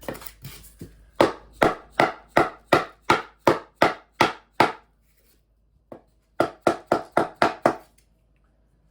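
Repeated knocks on the edge of a foam-backed compressed-wood subfloor tile, tapping it tight against its neighbour. There is a steady run of about ten blows, a short pause, then about six quicker ones.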